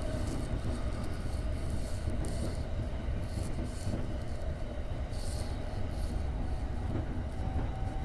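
Electric commuter train running along the JR Tokaido Line, heard from inside the driver's cab: a steady low rumble of wheels on rail, with short flurries of hiss every so often.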